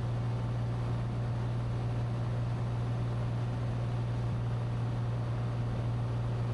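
Cabin drone of a Cessna 182T in flight: its Lycoming IO-540 six-cylinder engine and propeller running at a steady power setting, a constant low hum under an even rushing noise.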